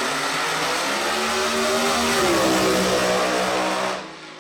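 Drag-racing truck engine at full throttle, its pitch climbing for about two seconds and then holding. The sound cuts off suddenly near the end.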